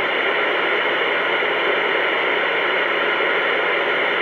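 Steady hiss of CB radio static on an open channel, with no voice coming through.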